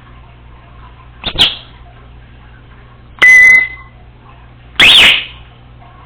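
Congo African grey parrot calling: a short call about a second in, then two loud calls, the first with a steady beep-like tone, the second rising and falling in pitch.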